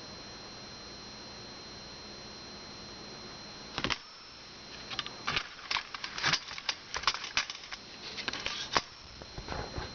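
Dice rattling and clattering: a short burst of sharp clicks about four seconds in, then an irregular run of sharp clicks for about four seconds, with a few more near the end. Before the clicks there is only a steady faint hiss with a high whine.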